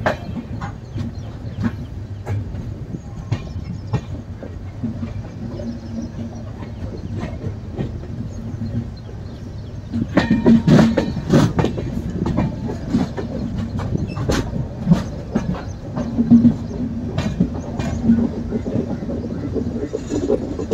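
Coaches of the 16584 Latur–Yesvantpur Express rolling along the track: a steady low rumble with wheels clicking irregularly over rail joints, getting louder and busier about halfway through.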